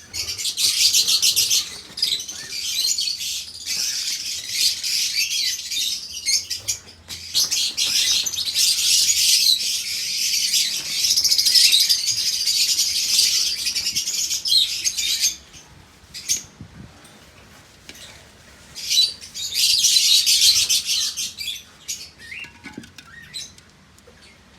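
Dry wood chips rustling and crackling as they are put by hand into a clay pot nest. The rustling lasts about fifteen seconds, stops, then comes back briefly a few seconds later.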